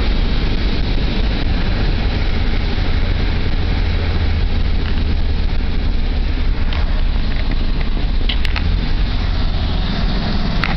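Volkswagen Brasília's air-cooled flat-four engine and rushing wind heard from inside the cabin at high road speed: a loud, steady low drone. The note of the drone changes about a second before the end.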